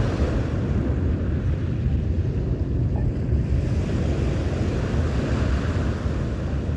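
Sea waves washing ashore, with wind buffeting the microphone in a steady low rumble.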